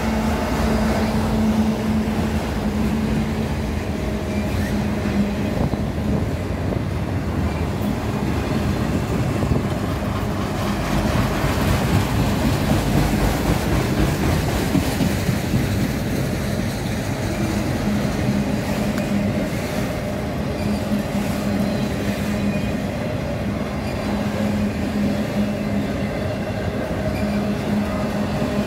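Freight train of loaded autorack cars rolling past close by: a continuous rumble and rattle of steel wheels on the rails, under a steady low drone that fades for a while mid-way and comes back near the end.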